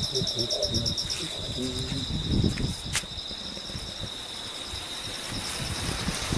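Insects chirring in chorus: a steady high buzz with a fast pulsing trill above it, over low rumbling noise. A single sharp click about three seconds in.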